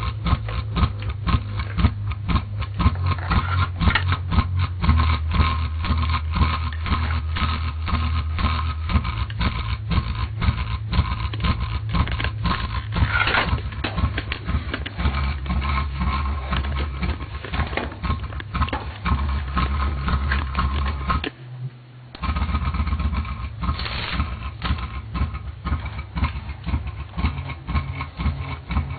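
Music played through a SVEN SPS-820 subwoofer speaker system: heavy bass notes that change every few seconds under dense rapid ticking. The sound cuts out briefly about three-quarters of the way through, then resumes.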